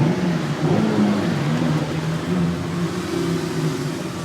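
A car engine running and being revved, its pitch rising and falling.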